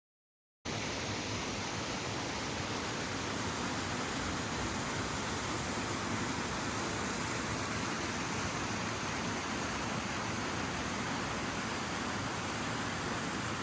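Steady, even rush of flowing water, cutting in abruptly after a moment of dead silence.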